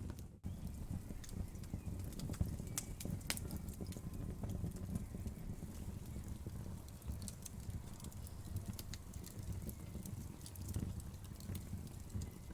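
Wood fire crackling: scattered sharp pops and snaps over a steady low rumble of burning. There is a brief dropout just after the start.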